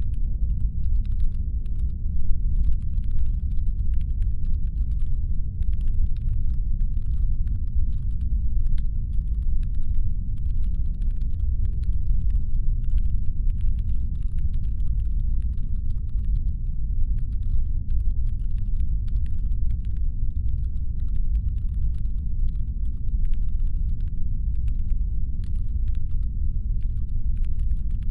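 Constant deep brown-noise rumble, designed as a spaceship's engine hum, steady and without changes. Faint, scattered light ticks sit far above it.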